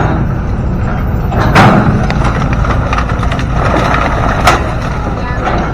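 A heavy engine running steadily, with a sharp knock about a second and a half in and another, lighter one near the end.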